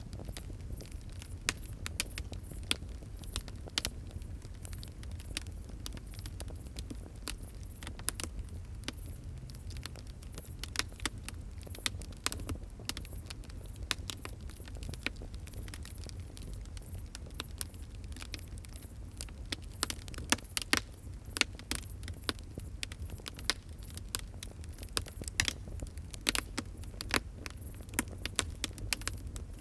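Fire crackling: a steady low rumble of burning under frequent sharp pops and snaps. The pops come thicker and louder from about twenty seconds in.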